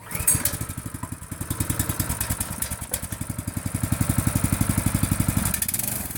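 Baja MB 200 minibike's small engine starting up suddenly and running with a rapid, even stream of firing pulses. Its speed rises and falls as it is revved, then drops back shortly before the end.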